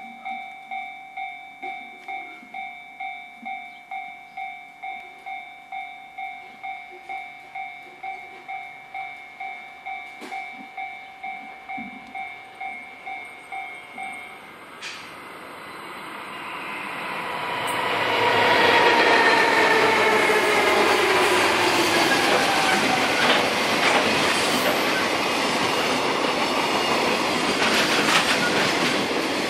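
An electronic level-crossing warning bell dings steadily about twice a second, then stops about halfway through. A JR Freight DF200 diesel-electric locomotive then passes hauling a container freight train. The sound swells into a loud, steady rumble and clatter of wagon wheels, and the locomotive's engine note falls in pitch as it goes by.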